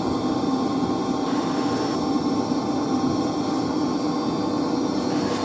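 Steady machinery hum of a running heating plant, with an even low drone and a faint high whine, unchanging throughout.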